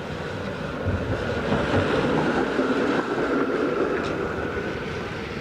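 A motor vehicle passing, its engine and tyre noise with a steady whine growing louder to a peak about halfway through, then fading.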